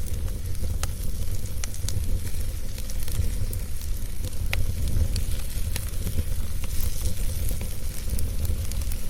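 Wood fire burning steadily, with a low rumble of flames and scattered sharp crackles and pops from the burning wood.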